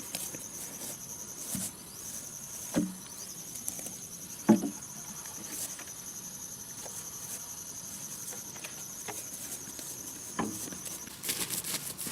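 An insect trilling steadily at a high pitch, stopping about eleven seconds in, with a few sharp knocks scattered over it, the loudest about three and four and a half seconds in.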